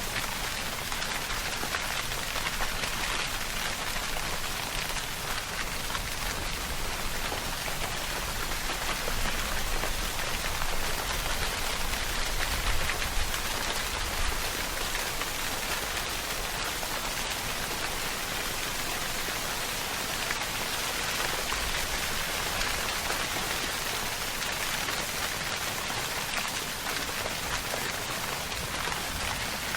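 Steady rainfall pattering on a surface, an even hiss of drops.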